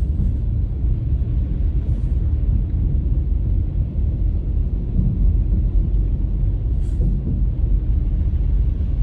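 Steady low rumble of a car on the road: engine and tyre noise, with a couple of faint ticks.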